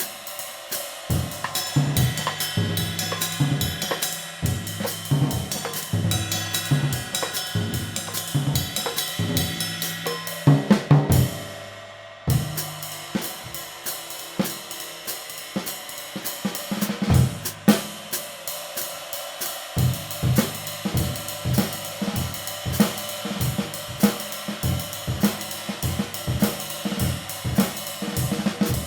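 A drum kit played in a steady groove, with a hand-made 20-inch B20 bronze medium-light ride cymbal ringing over bass drum and snare. Loud hits come about ten seconds in and are followed by a brief drop-out, and then the groove resumes.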